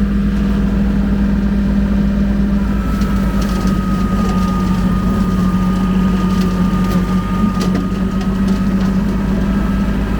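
Kubota L2501 compact tractor's three-cylinder diesel engine running steadily while powering a rotary brush mower. A steady high whine joins in about three seconds in, with scattered ticks and cracks through the middle.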